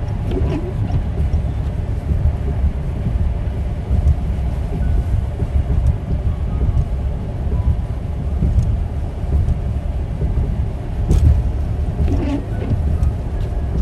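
Steady low rumble of a vehicle on the road, with a single short knock about eleven seconds in.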